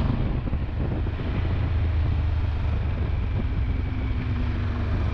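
Triumph Tiger 1200 Rally Explorer's three-cylinder engine running steadily at road speed, with wind and road noise over it.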